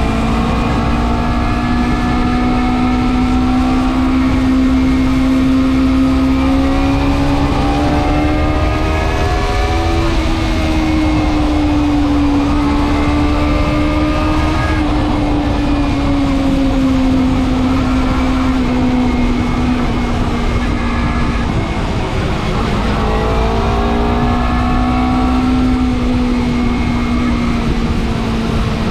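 Motorcycle engine running at road speed, a steady pitched drone that slowly rises and falls with speed, with wind noise partly damped by a foam cover over the action camera.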